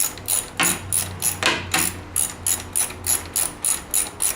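Hand socket ratchet clicking in quick, even strokes, about three a second, as a bolt is turned out with a 1/2-inch socket.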